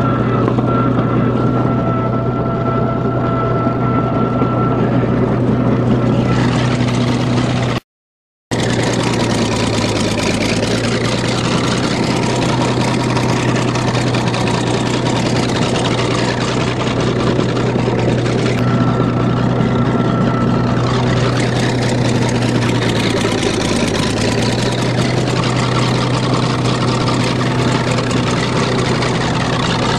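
Old diesel bulldozer engine running steadily while plowing snow, its low drone dipping in pitch briefly a couple of times as it takes load. The sound cuts out for about half a second around eight seconds in.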